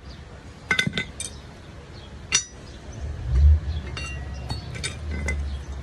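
Steel parts being struck and knocked together in a metal workshop: a series of sharp, ringing clinks at uneven intervals, with a low rumble swelling about halfway through.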